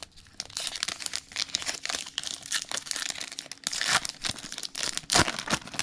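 Crinkling and tearing of a trading card pack's wrapper being opened by hand: a dense, irregular crackle with a couple of louder crinkles late on.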